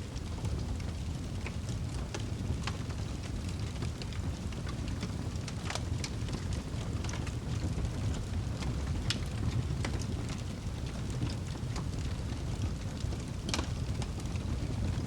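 Wood fire burning in a fireplace: a steady low rumble of flames with irregular sharp crackles and pops from the burning wood, a few louder ones scattered through.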